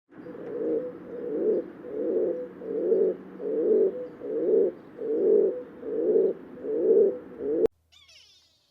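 An animal's repeated low calls, about ten in a row roughly one every 0.8 seconds, cut off abruptly near the end. A brief faint high chirping follows.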